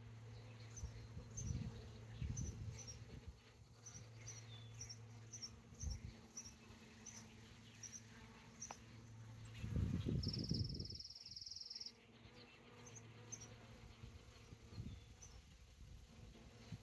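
Honey bee swarm buzzing as a steady low hum, which drops out for about two seconds partway through during a loud low rumble. Short high chirps repeat through the first half, and a brief buzzy high trill sounds at the midpoint.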